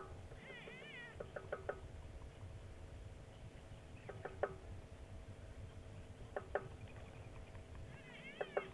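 Wild birds calling in the bush: short sharp clucking clicks in groups of two or three, repeated every couple of seconds. A brief wavering trill comes about half a second in and again near the end, over a low steady rumble.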